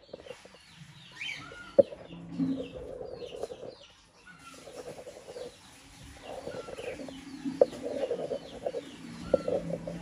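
Birds calling: many short, high chirps throughout, with bouts of lower, rougher calls that pause briefly near the middle, and a few sharp clicks, the loudest about two seconds in.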